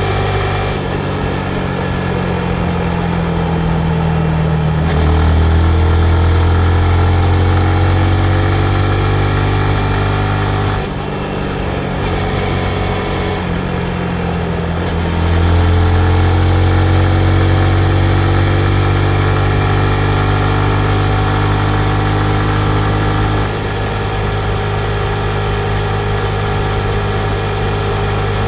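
2019 Yamaha MT-15's single-cylinder engine running while the bike is ridden, its pitch rising as it accelerates. The sound dips briefly about eleven seconds in, climbs again, then settles to a lower, steady run about twenty-three seconds in.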